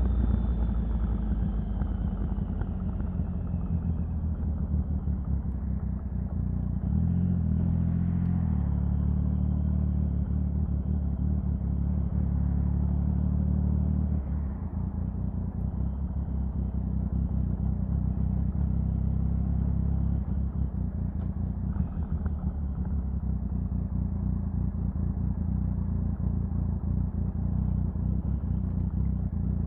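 Triumph Sprint 1050's three-cylinder engine running steadily. Its note shifts briefly about a quarter of the way in, and it drops a little in level about halfway through.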